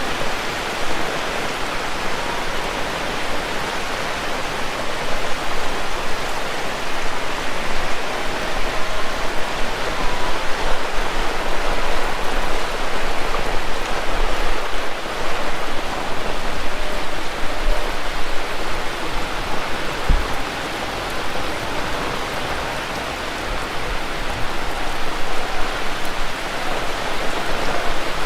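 Heavy rain falling steadily, a dense even hiss of rain. There is a brief low thump about twenty seconds in.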